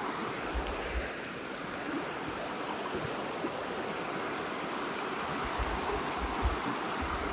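Small clear river flowing over stones: a steady rushing of water, with a few low thumps near the bottom of the sound.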